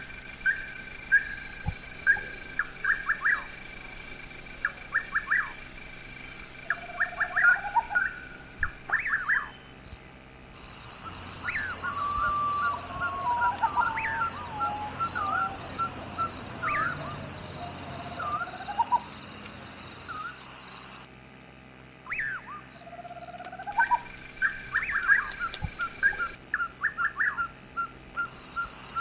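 Night-time wildlife chorus: repeated quick chirping and short rising calls over a steady high insect drone. The whole chorus changes abruptly several times, as if cut between clips.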